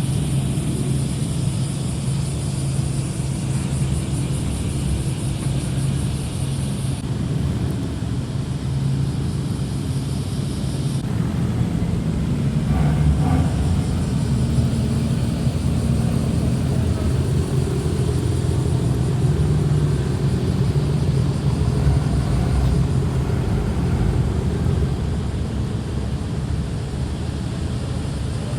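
Modified car's engine and exhaust running at low speed, a steady low rumble.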